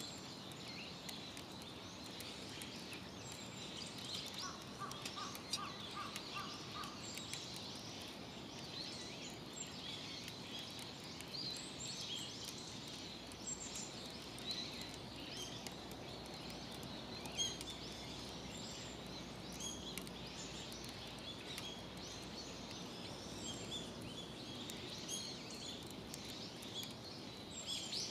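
Wild birds chirping and singing throughout, with a short run of about eight evenly spaced lower notes about five seconds in, over a steady outdoor background hiss.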